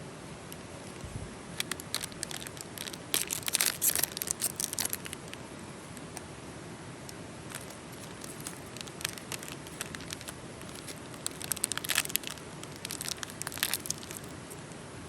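Crinkling and rustling of wrapping material being handled, in two bouts: one about a second and a half in, the other starting near the 11-second mark.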